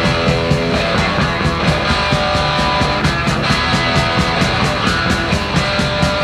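Punk rock band playing live, the song running without vocals: loud distorted electric guitar, bass and drums on a fast, steady beat with cymbals striking several times a second.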